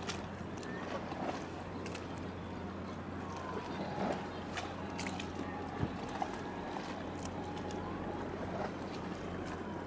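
Steady low hum of a boat's engine under an even wash of harbour noise, with scattered faint clicks and knocks.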